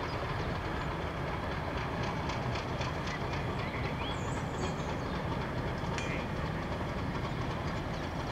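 Goods train of vans and a brake van worked by Class 50 diesel 50049, moving along the track: a steady low rumble with light clicking of wheels over rail joints.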